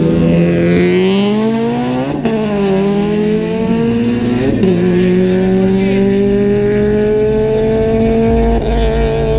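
Honda Civic EK hatchback accelerating hard down a drag strip: engine pitch climbs, drops sharply at two upshifts about two and four and a half seconds in, then rises slowly through the next gear.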